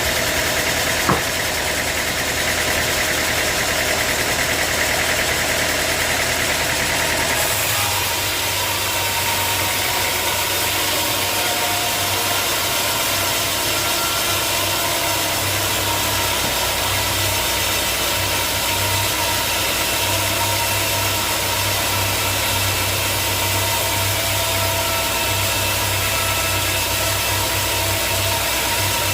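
Sawmill machinery running steadily with an engine-like drone. There is a sharp click about a second in, and about seven seconds in the sound shifts to a deeper steady hum.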